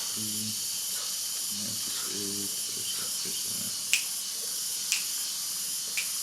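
A steady high hiss, with faint low voices in the first couple of seconds and three sharp ticks about a second apart in the second half.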